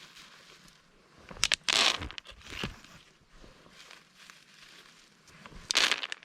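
Short bursts of crinkling and rustling while corn is handled and set down: a few clicks, then a rustle about two seconds in, a smaller one shortly after, and another near the end.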